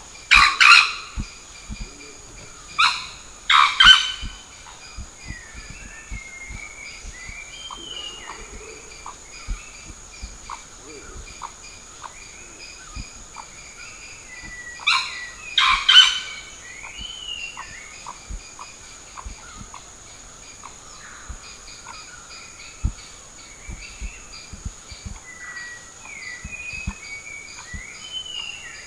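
Sri Lanka junglefowl rooster crowing: three short, loud crows, near the start, about three seconds in and again around fifteen seconds in. A steady high insect drone and scattered small bird chirps run underneath.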